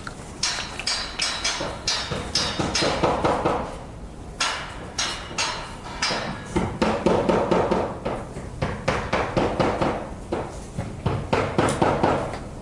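Hammer blows on metal, struck repeatedly at an uneven pace of several a second, with a short ring after each strike.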